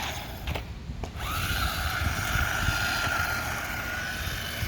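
Brushed electric motor of a 1/16-scale RC drift truck whining; it cuts out near the start, with a couple of light clicks, then spins back up a little over a second in and holds a steady high whine.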